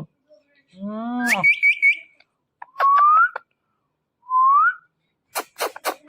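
Ring-necked parrot calling: a short meow-like call that rises into a quick run of high chirps, then two separate rising whistles. A rapid series of sharp clicks comes near the end.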